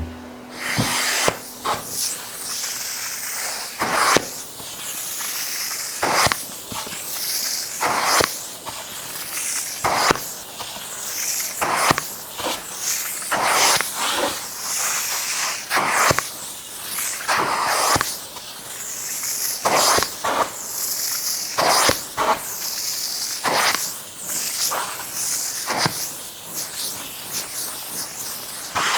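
Wet upholstery cushion fabric being scrubbed by hand to agitate the cleaning solution: repeated swishing strokes, one every second or two.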